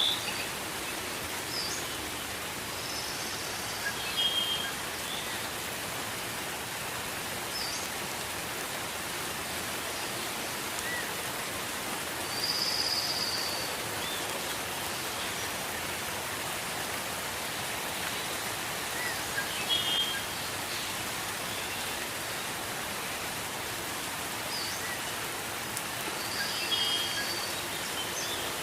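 Gentle rain falling steadily, with a bird giving short high calls every few seconds.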